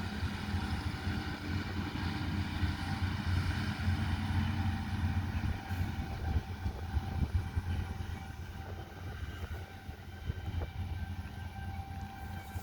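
Farm machinery engine running steadily: a low, even drone with steady whining tones above it.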